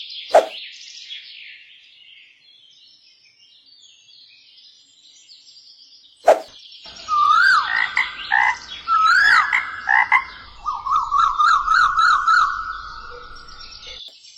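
Animal calls: faint high chirps at first, then, after a click about six seconds in, louder repeated calls that rise and fall in pitch, running into a quick trill near the end.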